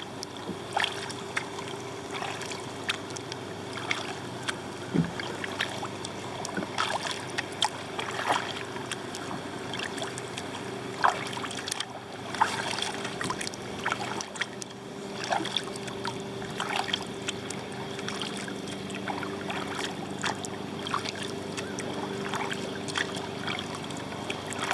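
Kayak paddle strokes in the water, with splashes and drips at irregular intervals, over a steady distant engine hum.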